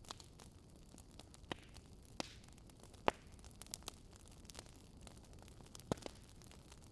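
A low steady hum with a few scattered sharp clicks or pops, the loudest about three seconds in and two close together near the end.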